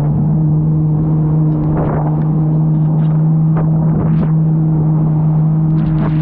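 Jet ski engine running at a steady pitch under way, with a few brief splashes of water against the hull.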